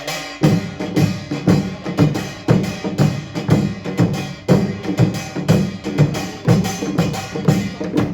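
Korean pungmul percussion ensemble playing: clanging small gongs over drums, with a strong, even beat about twice a second. The playing stops abruptly at the end.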